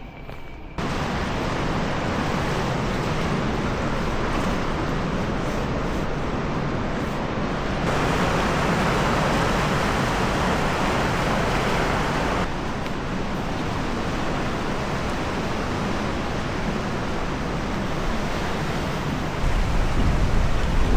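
Steady rush of sea surf and wind along a rocky shore, changing in character at cuts about 8 and 12 seconds in, with a deeper rumble near the end.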